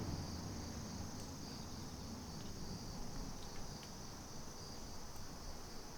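Steady chorus of crickets: an unbroken high-pitched trill with a low rumble underneath.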